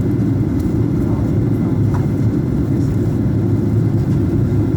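Steady low rumble of an airliner in flight, the engine and airflow noise heard from inside the passenger cabin.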